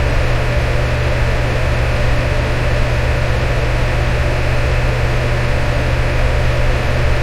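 Electric fan running steadily: an even rushing hiss with a strong low hum underneath, unchanging throughout.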